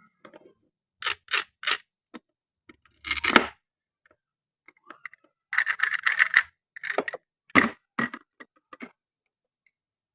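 Hard toy pieces being handled: scattered sharp clicks, clacks and a short scrape in brief clusters, stopping about nine seconds in.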